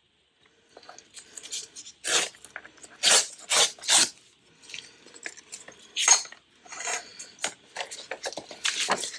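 Sheets of paper being handled: irregular rustles and crinkles, with several sharper, louder rustles between about two and six seconds in.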